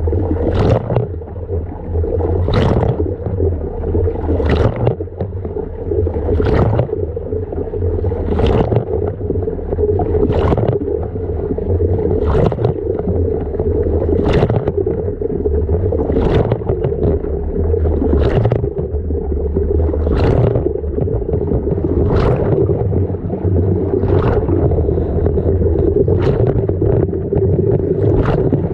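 LG washing machine running, heard from inside the drum: a steady motor hum and rumble, with a swishing slosh of water and laundry about every two seconds as the drum turns.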